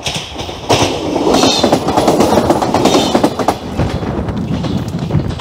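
Siemens Desiro diesel multiple unit passing close by: a loud rush of wheels and air with rapid clatter over the rail joints. It builds sharply about a second in and eases off near the end.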